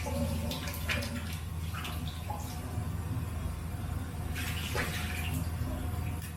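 Water running from a tap and splashing in a sink in irregular gushes, as in rinsing after a shave.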